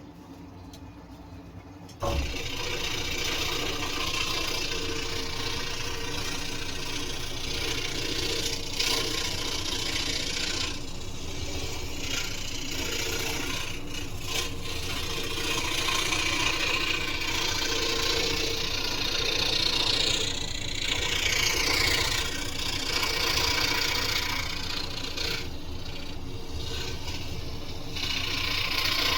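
Scroll saw switched on about two seconds in, then running steadily with a mechanical rattle as its blade cuts wood.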